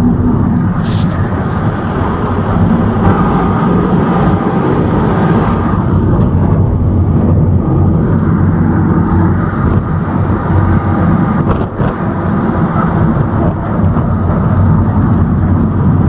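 A small goods truck's engine running along with road noise, heard from on board the moving truck; the sound is steady throughout.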